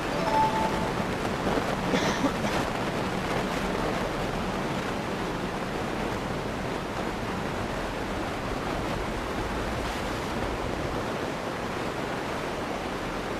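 Steady rushing noise without a clear pitch, with a short faint tone just after the start and a brief louder swell about two seconds in.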